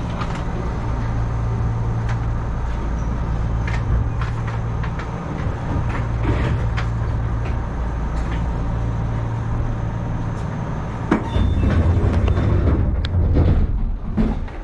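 Enshū Railway electric train: a steady low hum that drops out briefly midway, with scattered clicks and knocks. It grows louder and rougher for a few seconds near the end.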